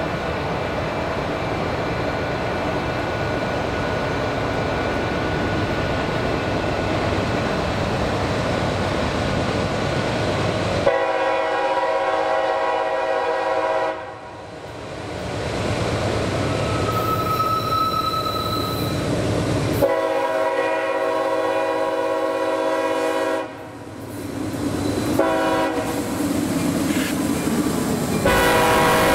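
CSX freight train's diesel locomotives rumbling steadily as they climb a grade, then the lead locomotive's air horn sounds the grade-crossing signal: two long blasts, a short one, and a final long blast starting near the end.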